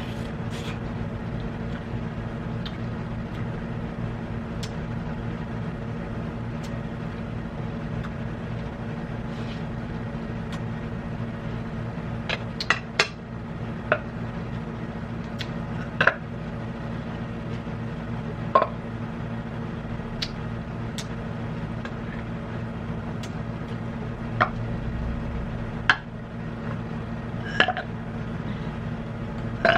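Cutlery clinking and tapping against plates and takeout containers during a meal: scattered sharp clinks, about a dozen of them mostly in the second half, over a steady low hum.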